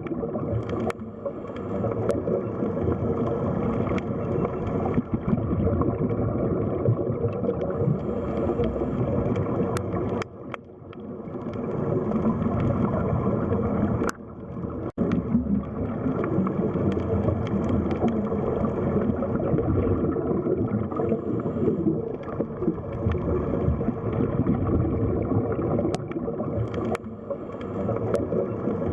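Underwater sea ambience: a steady, muffled wash of water noise, dipping briefly in loudness twice, around ten and fifteen seconds in.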